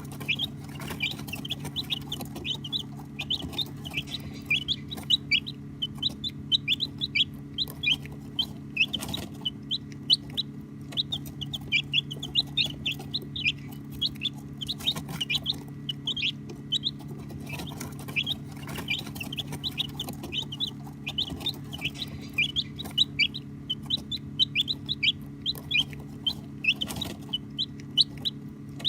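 Baby chicks chirping continuously: many overlapping short, high peeps, each falling in pitch, several a second. A steady low hum runs underneath.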